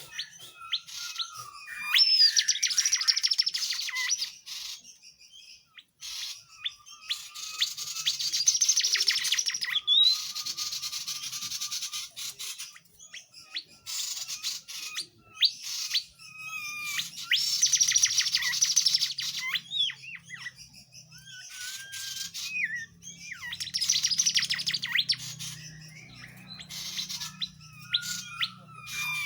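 Tledekan jati singing energetically: several loud bursts of rapid, chattering song mixed with short whistled notes, separated by pauses of a second or two.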